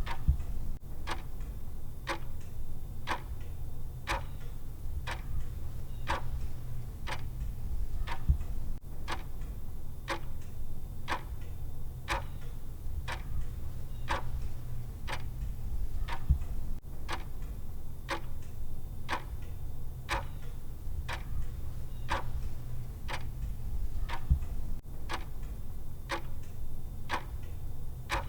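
A clock-style timer tick sound, ticking steadily at an even rhythm over a low, steady hum.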